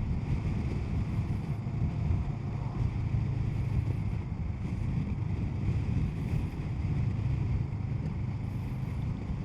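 Kawasaki Z650 motorcycle's parallel-twin engine running steadily under way, with wind rush, heard through a mic inside the rider's helmet.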